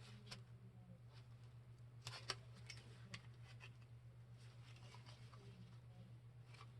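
Near silence: a steady low hum with a few faint clicks and taps of a new brass gas shutoff valve and its fittings being handled, the clearest about two seconds in.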